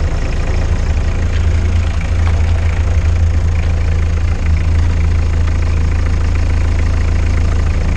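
Steady, loud low rumble of an old car running, picked up by a camera mounted on the anti-roll bar under the car: engine and running-gear noise with some faint ticks.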